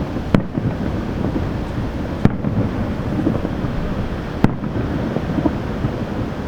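Aerial firework shells bursting in the distance: three sharp bangs about two seconds apart over a steady low rumble.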